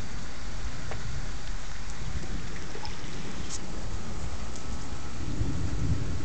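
Thunderstorm: steady rain with scattered raindrop ticks, and a low rumble of thunder swelling about five seconds in.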